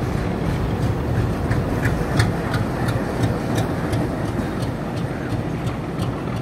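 Freight train rolling past close below: a steady low rumble of wagon wheels on the rails, with a regular run of sharp wheel clicks about three a second. Near the end the trailing WDP3A diesel locomotive passes, its engine running.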